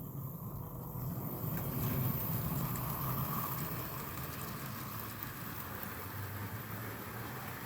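Model train running on the layout's track: a steady motor hum and wheels rumbling on the rails, a little louder about two seconds in.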